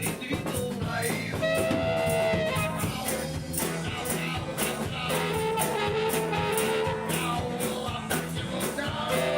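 A rock band playing live: drums keep a steady beat on the cymbals, over a bass line and guitar, with long held melody notes on top.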